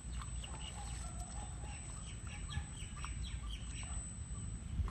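Small birds chirping repeatedly in short calls, over a low steady rumble.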